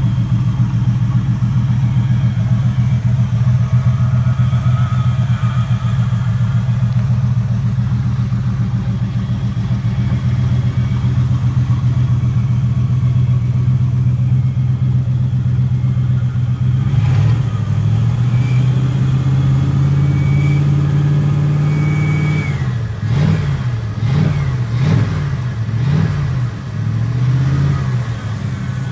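1969 Buick 430 V8 idling steadily, then held at a higher speed by hand at the carburetor throttle linkage, then revved in several quick blips near the end. It runs evenly, with no strange noises.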